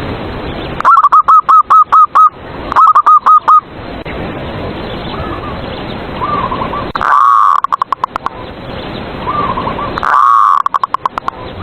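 Zebra doves (perkutut) singing their cooing song (manggung): two loud, rapid strings of repeated coos about a second and three seconds in, fainter coo phrases from another dove in between, and two more loud phrases around seven and ten seconds in. The loud coos reach full scale and sound clipped, over a steady hiss.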